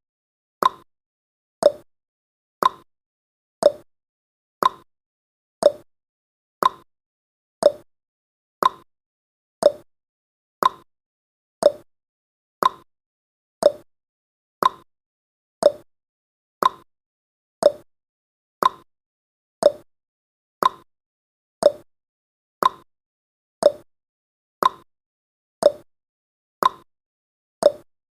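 Countdown timer's ticking sound effect: a short, sharp tick once every second, evenly spaced, like a clock.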